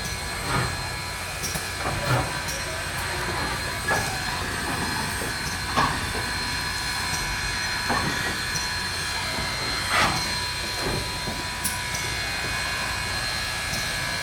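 Steam locomotive working slowly, with sharp exhaust beats about every two seconds over a steady hiss.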